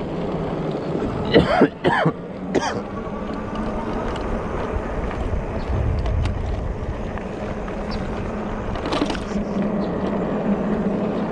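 Wind and road noise from riding a bike, with a steady low hum, broken by three short loud bursts about one and a half to two and a half seconds in and another near nine seconds.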